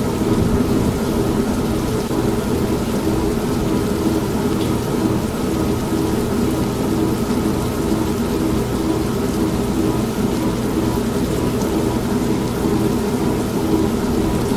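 An old washing machine running with a steady hum, mixed with steady rain and a low rumble of thunder.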